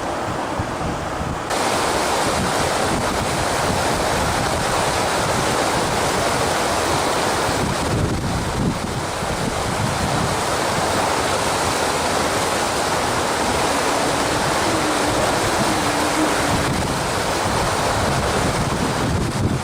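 Wind buffeting the microphone over rough water, with waves washing in a steady loud rush that jumps up sharply about a second and a half in.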